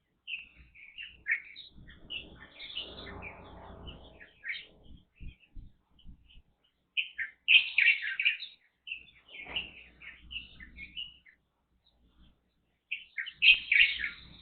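Small songbirds chirping in bouts of quick, short high notes, with pauses between the bouts.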